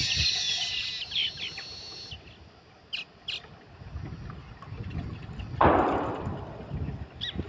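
Weaver birds chirping in short calls that thin out after the first second or so, with a few more chirps later. A loud, brief rushing whoosh comes about two-thirds of the way through, over a low rumble.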